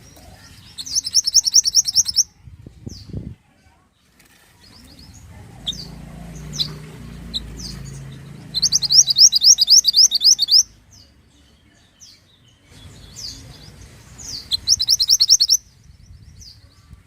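Mantenan songbird singing: three loud, fast trills of about a dozen high, evenly spaced notes, each lasting one to two seconds, with single high chirps in between. A brief low thud sounds about three seconds in, and a faint low hum lies under the middle of the passage.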